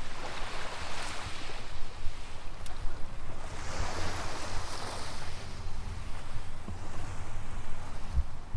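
Waves washing onto a sandy beach, with the surf swelling twice, plus a low wind rumble on the microphone.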